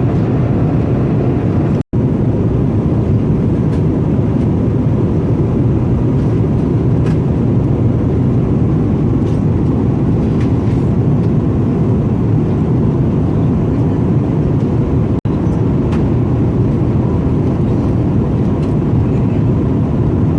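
Steady airliner cabin noise inside an Airbus A320: the constant low rush of engines and airflow, broken twice by an instant's gap.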